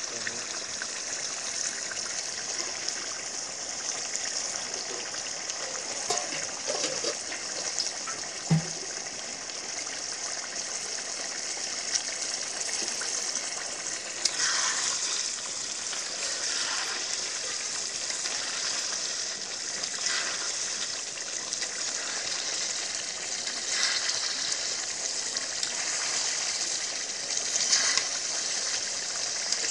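Mutton curry sizzling steadily in a metal karahi. From about halfway on, a spatula scrapes and stirs against the pan every second or two, and there is one sharp knock a little before that.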